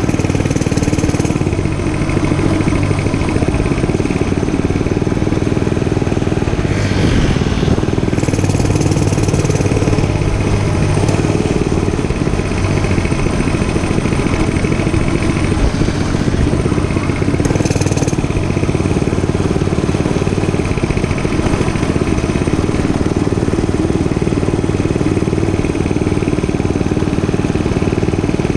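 Gas dirt bike engine running steadily.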